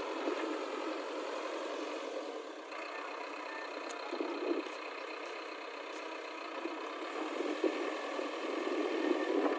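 A vehicle engine running steadily at an even idle.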